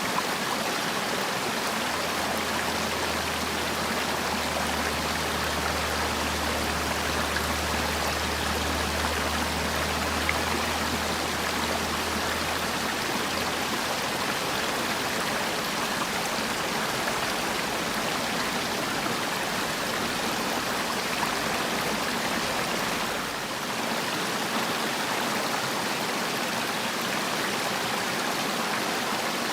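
Mountain valley stream rushing steadily over rocks. A low hum runs underneath for about the first dozen seconds.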